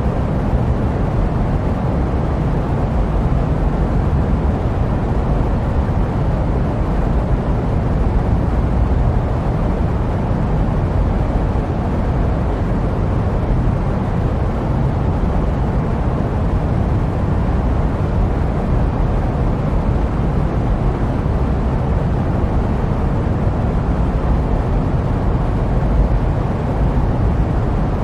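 Steady jet-airliner white noise: an even, deep hiss with most of its weight in the low end and no changes.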